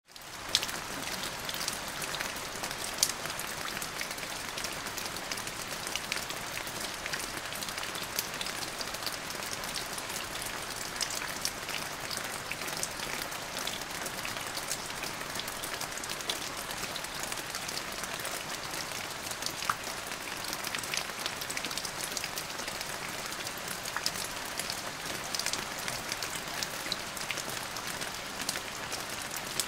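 Steady rain falling, a dense hiss of drops with many sharp individual drop ticks scattered through it. It fades in over the first half-second, then holds even.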